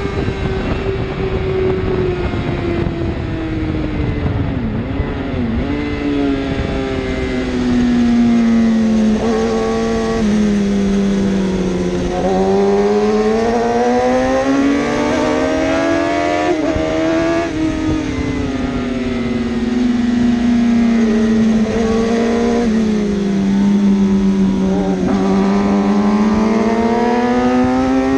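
1000cc superbike racing engines running hard and continuously, the pitch climbing and falling in long smooth sweeps of several seconds as the bikes accelerate and slow.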